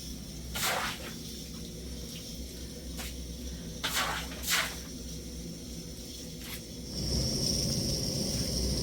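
Three brief swishing noises and a few faint clicks over low background noise, then a steady hiss from about seven seconds in.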